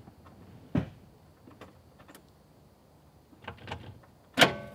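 A few short clicks and clunks from the Ford Fiesta as a restart is tried, with no engine turning over or running: the engine is stuck, its main bearings taken to be damaged after running on Coca-Cola instead of oil. The loudest is a sharp clunk with a brief ringing tone near the end.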